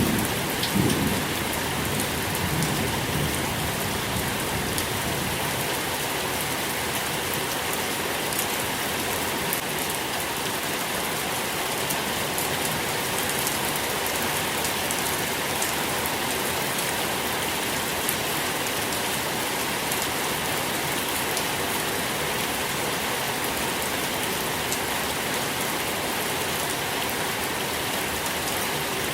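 Steady rain falling, with a low rumble of thunder dying away in the first few seconds.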